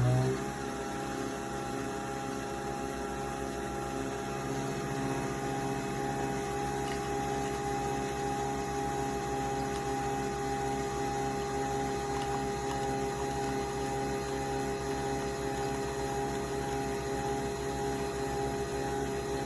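Nespresso Vertuo Next coffee machine brewing: its motor spins up quickly, then runs with a steady hum over a fast, even pulsing buzz.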